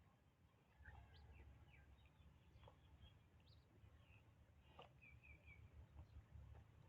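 Near silence with faint, scattered bird chirps, including a quick three-note trill about five seconds in, over a low background rumble.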